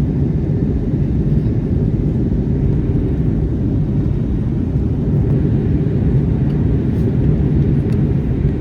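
Steady low rumble of airflow and engine noise heard inside the cabin of an Airbus A321neo in flight.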